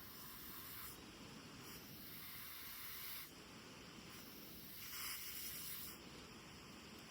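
Three long, soft breaths blown onto tinder, each about a second, as someone tries to coax a flint-and-steel ember into flame.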